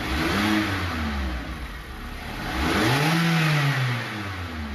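Car engine revving twice, its pitch rising and falling each time, the second rev longer and stronger, over a steady exhaust rush.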